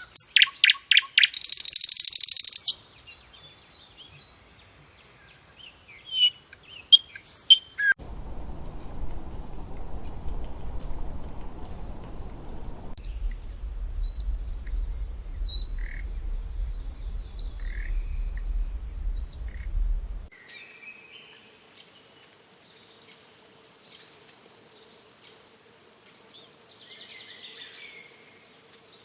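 Wild birds chirping and calling, opening with a loud rapid trill, then scattered short high chirps. A low rumbling noise runs under the calls through the middle, then drops away, leaving fainter chirps over a faint steady hum.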